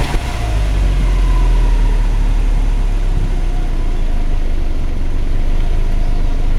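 Subaru Legacy BR9 2.5GT's turbocharged flat-four idling steadily through its factory muffler.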